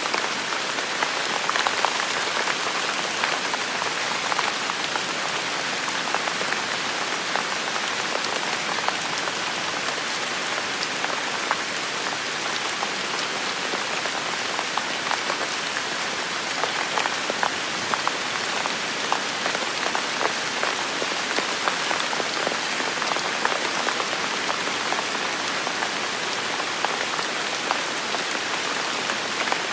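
Heavy rain falling steadily in a forest, a dense even hiss with countless individual drops pattering on surfaces.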